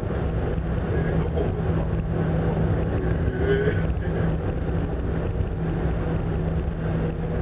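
Steady low drone of a large passenger ferry's engines and machinery, with a constant hum under it.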